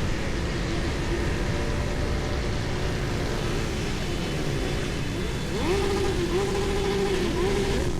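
Motorcycle engines running during a ride, under heavy low rumble. About five and a half seconds in, an engine note rises as it revs up, then holds steady.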